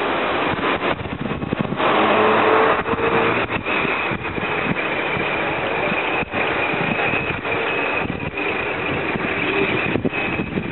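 Scania Irizar Century coach's diesel engine running, with a steady high whine above the engine noise. It gets louder for a moment about two seconds in.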